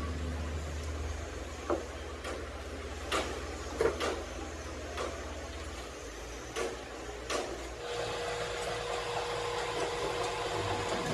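A low engine hum that fades away about six seconds in, with scattered knocks and clicks, then a steady whine from a machine starting near the end.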